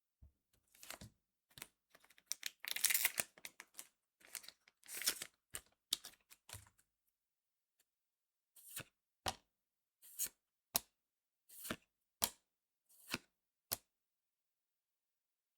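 Trading card booster pack being handled and torn open, its foil wrapper crinkling and ripping in irregular bursts for the first seven seconds. Then about eight short sharp snaps, roughly two a second, as the cards are flicked or set down one after another.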